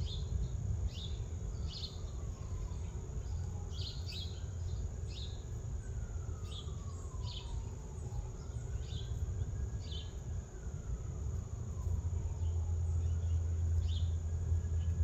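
Short bird chirps repeated at uneven intervals over a steady high insect trill, with a constant low rumble underneath and a faint tone that slowly rises and falls every few seconds.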